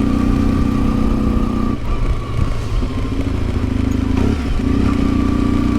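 1992 Yamaha XTZ 750 Super Ténéré's parallel-twin engine running under way, steady and loud, easing off briefly twice, about two seconds in and again about four and a half seconds in.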